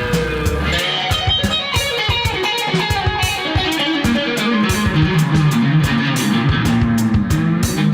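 Instrumental rock music: layered electric guitar lines from a Reville Q90 guitar through a Kustom PH1012 amp, over drums and bass. A held low bass note drops out about a second in.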